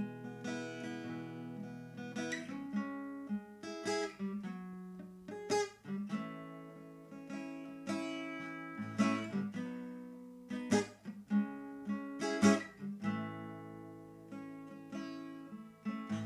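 Acoustic guitar being strummed and picked, chords ringing between strokes, in an instrumental break with no singing.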